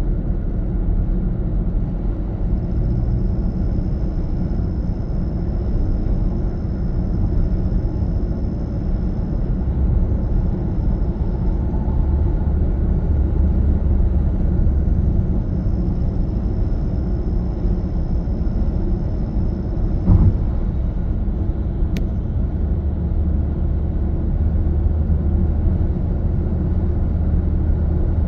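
A 2021 Toyota Corolla running on the road, a steady low rumble of engine and road noise, with a single thump about twenty seconds in and a sharp click shortly after.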